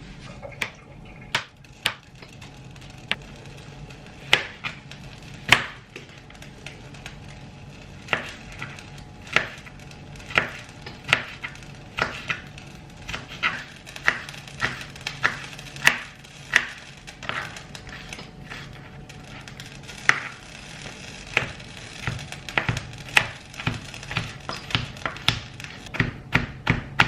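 A kitchen knife chopping on a cutting board: sharp separate strokes at an uneven pace, coming quicker near the end.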